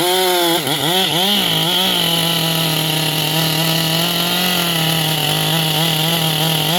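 Two-stroke chainsaw running at high revs as it cuts a tree. Its pitch dips and recovers a few times in the first two seconds, then holds steady.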